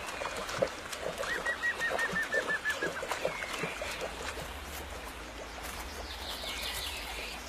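Wild birds calling: a quick trill of about ten short, high notes a second or so in, higher chirps near the end, and soft short calls throughout.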